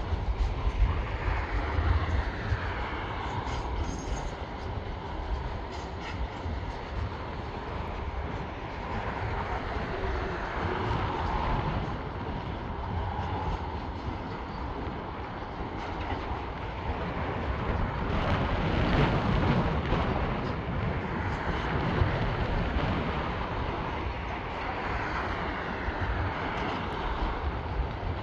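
Freight train wagons rolling across a concrete road bridge: a steady rumble of steel wheels on rail that swells about two-thirds of the way through, with a few faint rising and falling whines.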